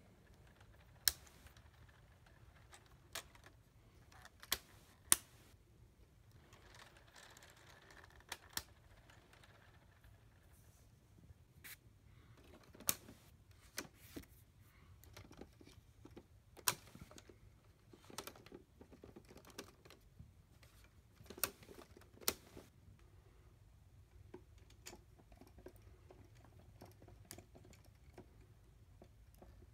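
Irregular sharp plastic clicks and knocks, every second or two, as LEGO Technic parts of a model helicopter are handled and its mechanisms are worked, over a faint low hum.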